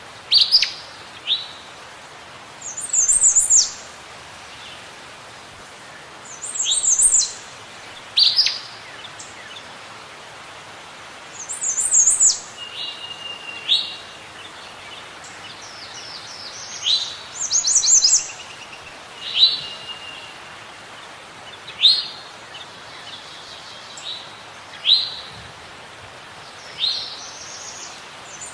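Songbirds calling: short, sharp chirps that sweep downward and higher twittering phrases come every few seconds over a steady soft hiss.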